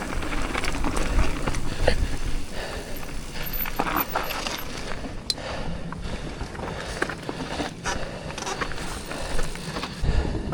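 Mountain bike riding down a dirt trail: tyres rolling over dirt with the chain and frame rattling in scattered clicks, over a steady low rush of wind on the microphone.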